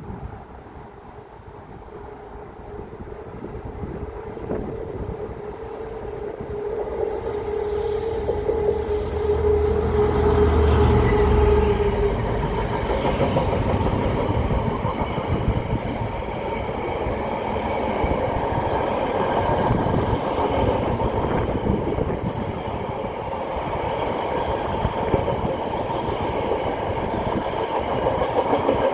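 Diesel train approaching and passing. It grows louder over the first ten seconds, the engine's low drone peaks at about eleven seconds, then a long steady rolling of wheels on rail follows, with some squealing and clatter.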